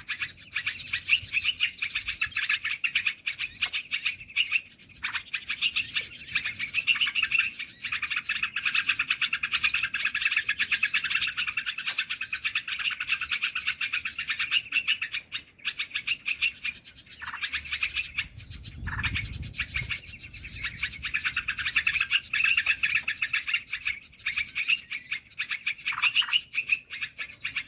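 Small birds chattering and chirping fast and densely, with barely a break. There is a short lull about fifteen seconds in and a low rumble near nineteen seconds.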